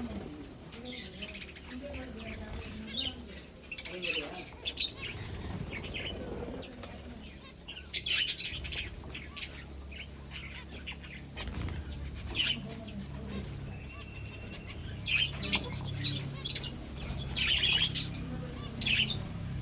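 Aviary finches chirping in short, repeated high calls, with bursts of wing-flapping among them.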